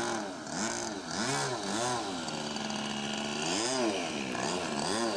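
Radio-controlled model Maule floatplane's engine revving up and down in short throttle blips while taxiing on the water. There are several quick rises and falls in pitch, with a steadier stretch in the middle.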